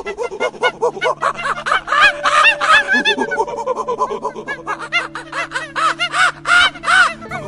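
Monkeys chattering: a rapid run of short squeaky calls, each rising and falling in pitch, several a second and overlapping, louder in two spells.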